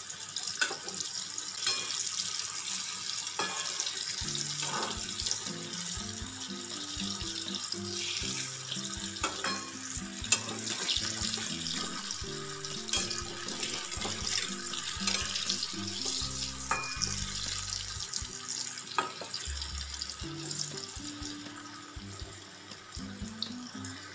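Taro slices frying in hot oil in a karahi: a steady crackling sizzle with scattered pops. Background music of single low notes comes in about four seconds in.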